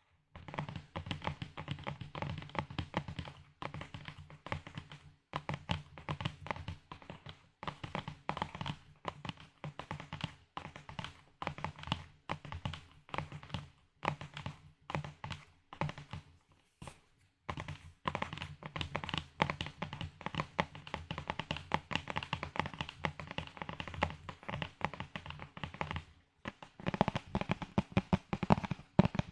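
ASMR tapping on objects close to the microphone: quick, irregular taps and clicks in dense runs, pausing briefly a few times.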